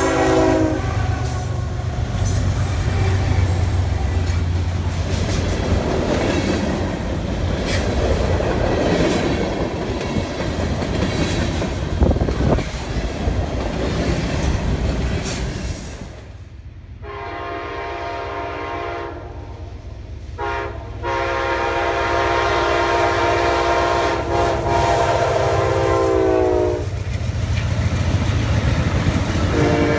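Norfolk Southern freight train passing: its horn chord cuts off about a second in, then the railcars roll by with the wheels clattering and clicking over the rail joints. About halfway through, an Amtrak passenger train's horn sounds a shorter blast and then a long blast, its pitch dropping slightly at the end, and sounds again near the end.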